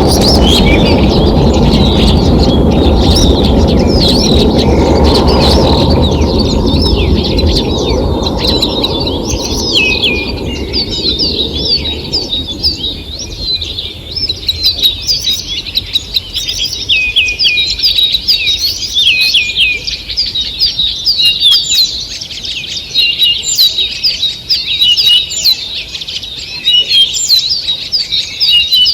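Morning chorus of many small songbirds singing and chirping together: quick, high notes, many of them dropping sharply in pitch. A loud low rushing noise fills the first several seconds and fades away by about ten seconds in, leaving the birdsong alone.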